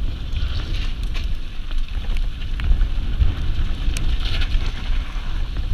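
Wind buffeting the microphone as a mountain bike descends at speed, with scattered sharp clicks and rattles over a continuous low rumble.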